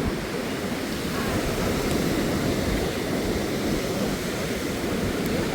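Huka Falls on the Waikato River: a steady rush of fast, heavy water.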